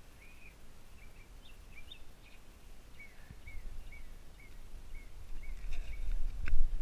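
A bird chirping over and over in short, evenly spaced notes, about two a second, over steady outdoor background noise. A low rumble grows louder near the end, with a couple of clicks.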